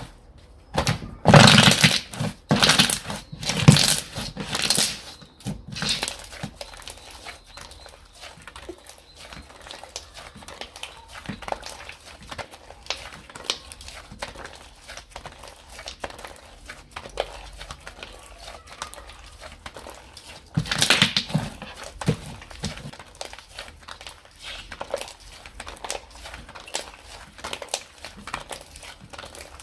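Hands squishing, stretching and pressing slime, making sticky clicks, pops and crackles. The pops come thick and loud in the first few seconds and again about two-thirds of the way through, with softer crackling in between.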